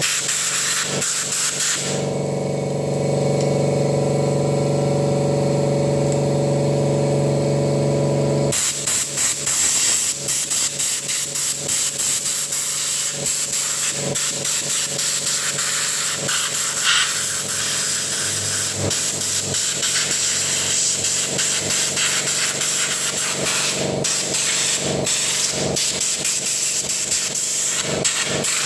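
A hissing, sputtering spray played over the opened mixer's circuit board to clean it. From about two to eight and a half seconds in, a steady hum sounds under the spray.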